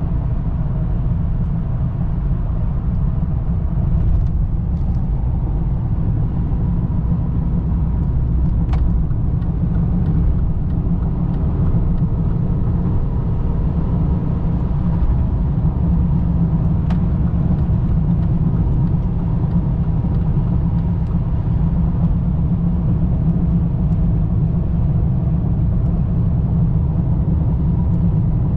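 2003 BMW 525i (E39) with its 2.5-litre inline-six, driving, heard as a steady, loud low rumble of engine and road noise with only small changes in engine pitch.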